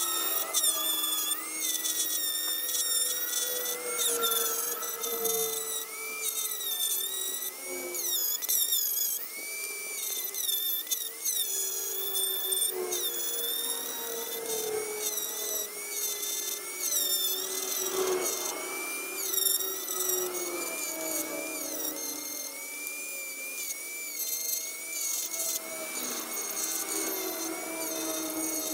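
Small power tool motor running continuously on iron parts, its whine dipping and recovering in pitch as the tool is loaded and eased off.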